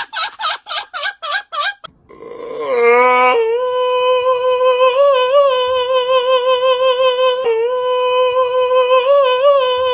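A high, voice-like call: a quick run of short yelping notes about four a second, then a rising note that settles into one long, steady held note with a few small wavers.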